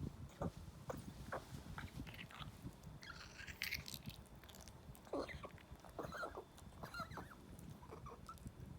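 A Maltese dog's quiet mouth and throat noises: scattered soft smacking clicks, a short snuffling noise a few seconds in, then several brief squeaks.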